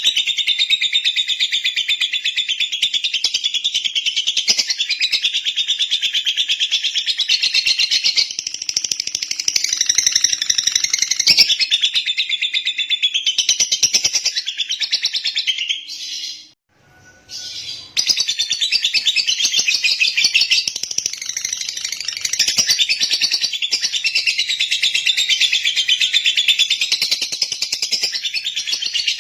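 Lovebird chattering in a fast, unbroken stream of high chirps and trills, with a brief break about sixteen seconds in before it starts again.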